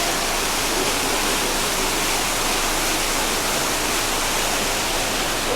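Heavy rain falling steadily: a dense, even wash of noise with no breaks.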